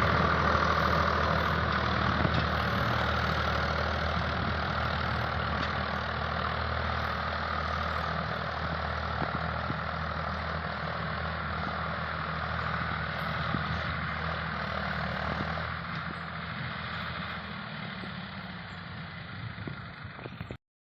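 Swaraj 744 FE tractor's three-cylinder diesel engine running steadily, growing gradually fainter, until the sound cuts off abruptly near the end.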